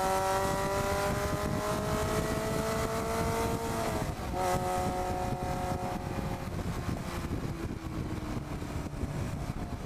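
Sports car engine heard from an onboard camera, pulling with steadily rising pitch, then a brief break and drop in pitch about four seconds in as it shifts up a gear; it holds steady, then eases off in the second half. Heavy wind noise on the microphone throughout.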